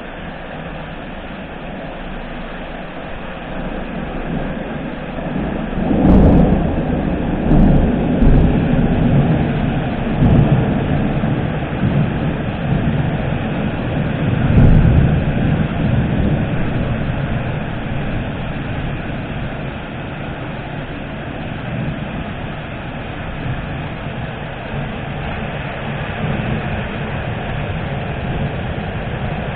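Thunder: a sharp crack about six seconds in, then a long rolling rumble with several further loud peaks, the loudest near the middle, fading over the second half. Steady rain runs underneath.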